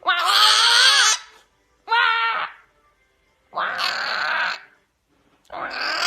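A pet bird giving four loud, wavering calls, each under about a second long, with short silent gaps between them.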